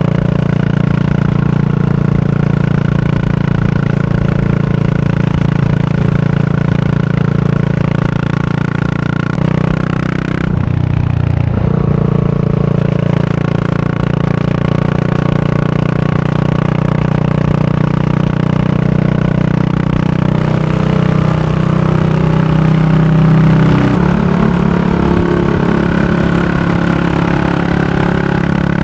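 Yamaha SR400's single-cylinder engine running through a Goods Tapered Cone slip-on muffler while riding. The note holds steady, breaks briefly about ten seconds in, and climbs then drops a few seconds before the end.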